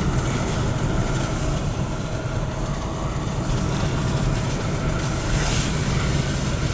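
A car driving along a road, its engine and tyres making a steady rumble.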